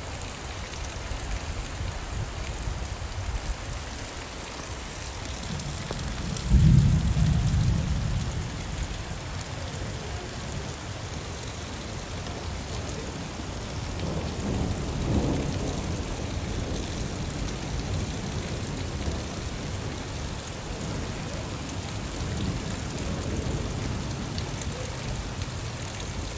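Steady rain falling, with a loud roll of thunder breaking about six seconds in and a fainter rumble of thunder near the middle.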